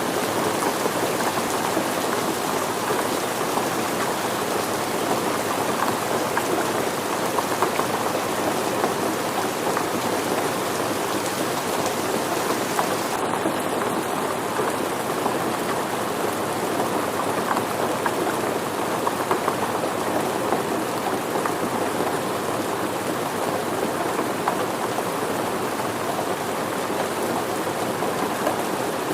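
Steady rain with dense drop patter on surfaces, an even hiss that holds at one level.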